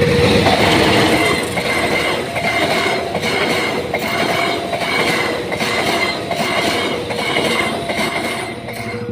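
A train passing over a level crossing, its wheels clacking over the rail joints in an even rhythm of about one and a half beats a second, with a steady tone running underneath.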